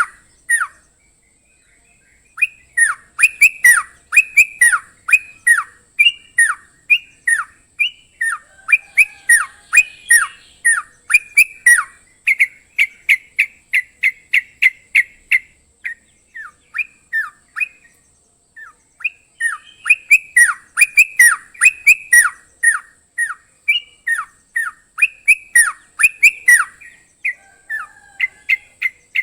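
Songbird singing a rapid series of sharp, downward-slurred notes, several a second, in bursts broken by short pauses: a crocokan-style master song for training caged birds. A faint steady high whine runs underneath.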